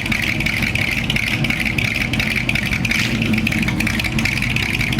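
Car engine running steadily, with a constant rumble and no clear revs or stops.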